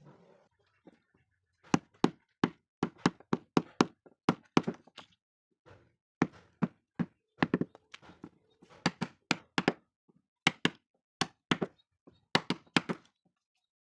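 Mallet striking a carving chisel into wood: sharp, separate knocks in irregular runs of about two to four a second, with short pauses between runs.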